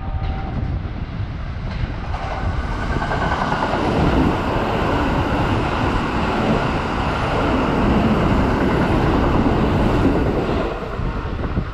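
Kintetsu limited express train passing on the near platform track. The rumble of wheels on rail builds over the first couple of seconds, stays loud, and fades away near the end.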